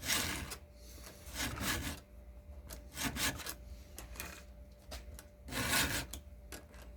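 Round file rasping across the cutter teeth of a chainsaw chain as it is hand-sharpened, in about four slow, separate strokes.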